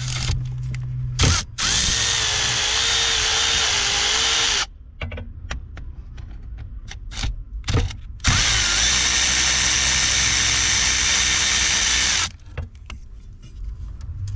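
Power drill running in two steady bursts of about three and four seconds, with sharp clicks and knocks of tool handling between them.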